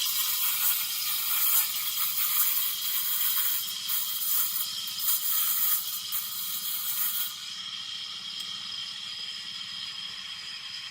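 Steam wand of a 1981 Olympia Cremina lever espresso machine hissing as it steams milk, through a steam tip with only one of its three holes open. About seven seconds in the hiss drops to a quieter, duller hiss.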